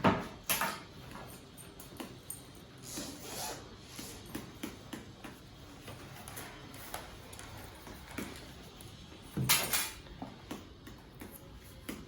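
Handling noises: a knock at the start and another about half a second later, a louder knock about nine and a half seconds in, with scattered small clicks and rustles between.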